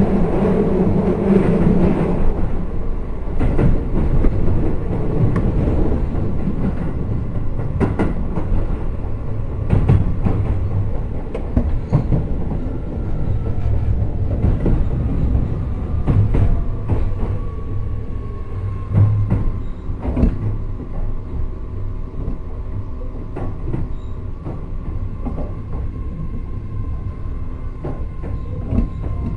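Interior running noise of a Keio 7000 series train car: low rumble from the wheels and sharp clicks over rail joints. Later on the clicks come further apart and the noise eases as the train slows, leaving a steady hum with a faint high whine.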